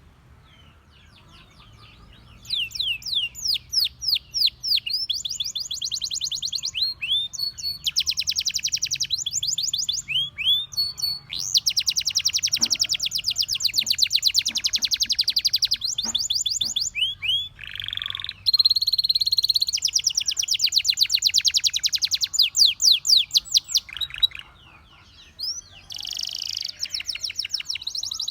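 Canary singing: starting about two seconds in, long phrases of fast repeated rising chirps and rapid rolling trills, with short pauses between phrases.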